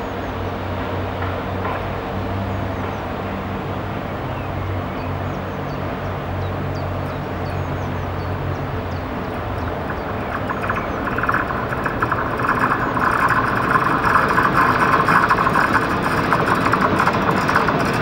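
A train on the line: a steady low hum, then from about ten seconds in the rattle and rush of wheels on rail grow louder as a train comes close.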